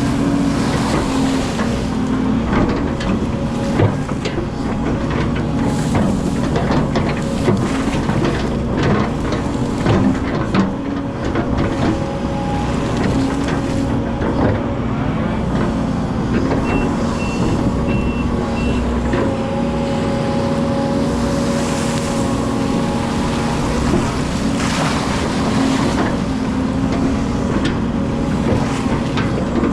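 Hydraulic excavator's engine running steadily under work, with repeated knocks and clatter from the machine. A short run of four high beeps sounds about two-thirds of the way in.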